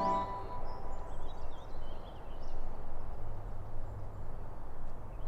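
Outdoor ambience: a low, even rumble with faint birds chirping now and then. A low steady hum joins about three seconds in. Soft background music cuts off just after the start.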